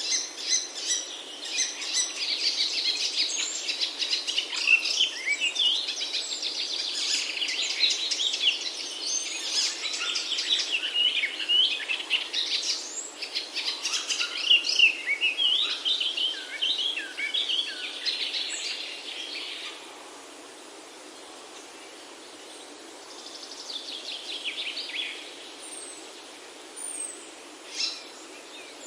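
Several songbirds chirping and trilling together in a dense chorus over a steady outdoor background hiss; the chorus thins out about twenty seconds in, leaving the hiss with a short burst of chirping and a few single calls near the end.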